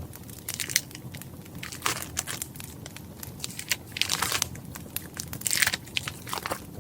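Steady crackling of a wood fire, with five or six louder bursts of paper crinkling and tearing over it.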